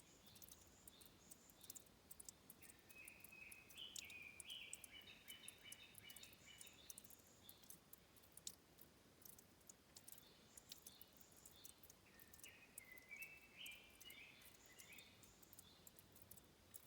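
Faint forest ambience: a small songbird sings two short phrases of quick stepped notes, about three seconds in and again about twelve seconds in, over a low hiss with scattered faint clicks.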